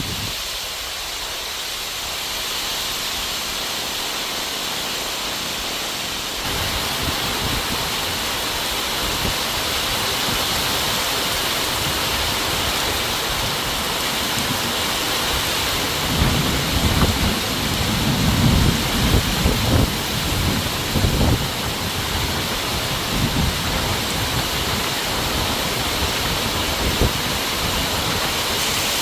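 Heavy rain pouring down steadily, growing louder about six seconds in. Low thunder rumbles roll in about halfway through.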